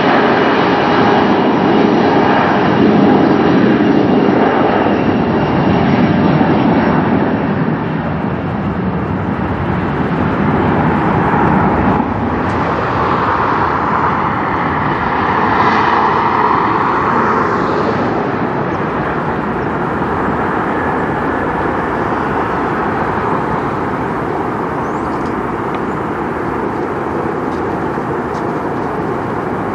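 Jet airliner engines at takeoff thrust, a loud rushing noise with a faint steady whine at first, slowly fading as the aircraft climbs away.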